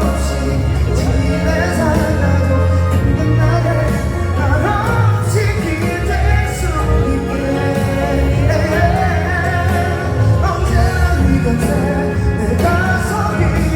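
Live pop-rock song played loud over a stadium sound system: a male singer's voice carries the melody over band accompaniment with steady bass.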